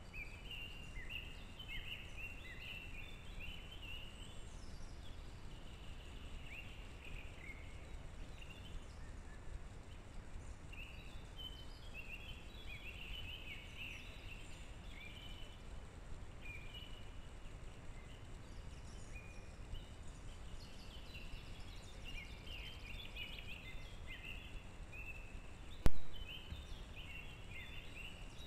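Small birds chirping and singing, many short high notes throughout, over a steady low background noise. One sharp click near the end.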